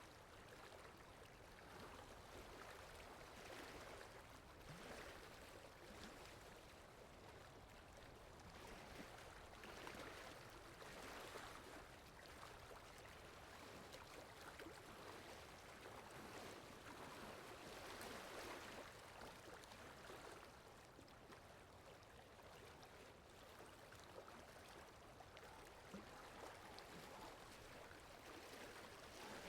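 Faint rain and running-water ambience, a soft even hiss that swells and eases every few seconds.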